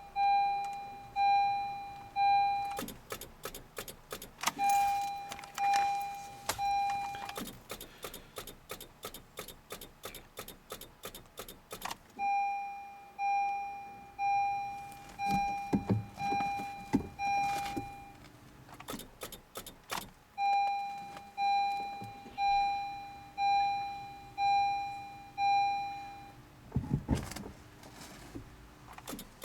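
Honda CR-Z's dashboard warning chime beeping in repeated runs, over rapid electrical clicking, as the car fails to start in −30 °C cold. A low thump comes near the end.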